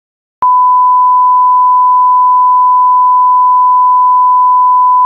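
A loud, steady electronic beep: a single pure tone near 1 kHz that starts abruptly about half a second in after dead silence and holds at one pitch.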